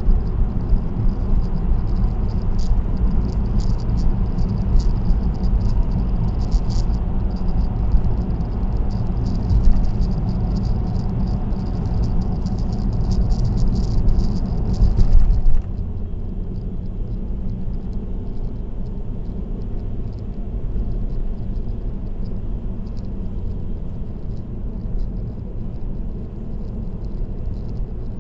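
Car on an expressway, tyre and road noise heard from inside the vehicle, with a fine rattling over the steady rumble. A little over halfway through, the rattle and the hiss drop off abruptly, leaving a quieter, duller road rumble.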